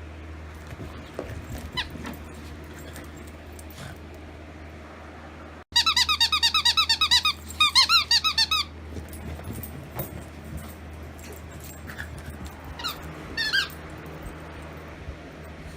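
Squeaky dog toy squeaking in two quick loud runs, about eight squeaks a second, with a few fainter squeaks before and near the end.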